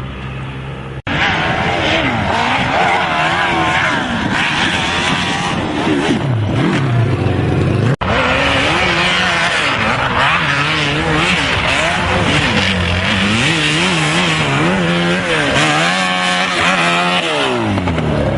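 Motorcycle engines revving up and down again and again over a noisy background, broken by abrupt cuts about one and eight seconds in.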